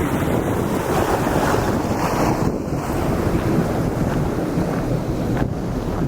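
Wind buffeting the camera's built-in microphone: a loud, steady rumbling roar.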